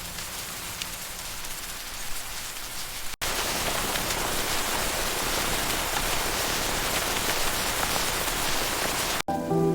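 Rain falling: a lighter patter with scattered drips for about three seconds, then an abrupt cut to louder, heavier, denser rain.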